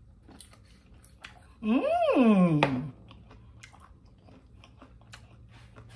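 A person chewing a fried-liver taco in a corn tortilla, with faint wet crunching and mouth clicks. Close to two seconds in comes one loud closed-mouth hum of enjoyment that rises and then falls in pitch, lasting about a second.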